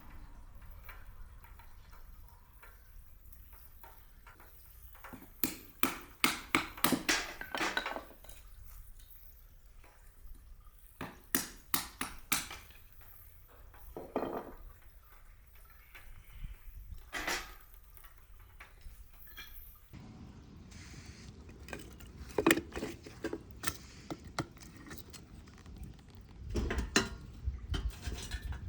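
Cookware and utensils clinking and clattering in several short bursts, with quieter stretches between.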